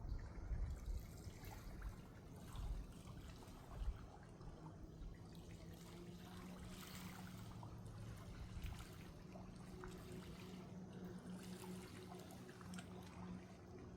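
Gentle water splashing and trickling. A few low thumps come in the first few seconds, and a steady low hum joins from about halfway in.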